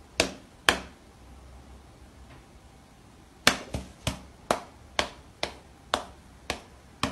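Sharp slaps of a cat's paw batting against an open hand: two in the first second, then after a pause a run of about nine, roughly two a second.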